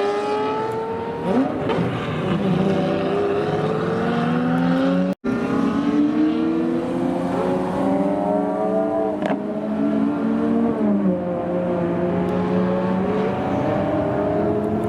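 Several Lamborghini supercars accelerating with loud exhausts, their engine notes rising and overlapping as one car after another revs and pulls away. The sound drops out for an instant about five seconds in.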